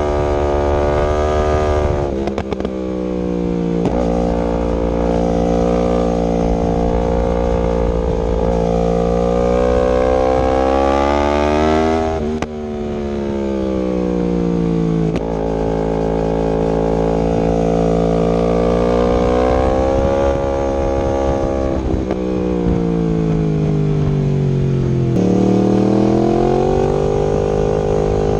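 2019 Yamaha R1's crossplane inline-four running through an Akrapovic exhaust with link pipe while being ridden. The engine note climbs and falls several times as the bike accelerates, changes gear and slows, with a quick rise in pitch near the end.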